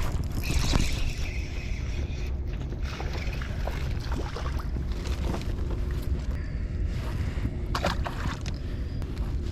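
Wind rumbling on the microphone, with water noise around a fishing kayak that comes and goes in hissy patches.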